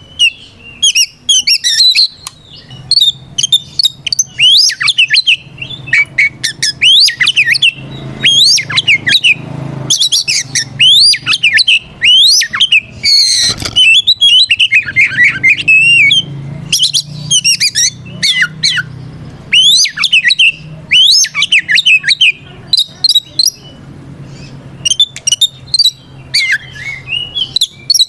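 Oriental magpie-robin (kacer) singing a loud challenge song of rapid, varied whistles, trills and harsh squawky notes, phrase after phrase with short gaps. This is its rival-calling territorial song.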